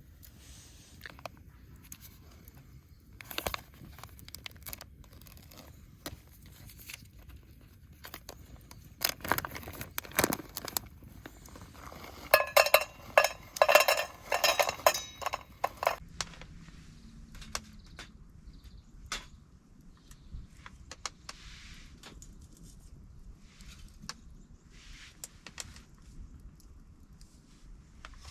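Small hard objects being handled: scattered clicks and taps, with a louder run of ringing clinks and rattles about twelve to sixteen seconds in.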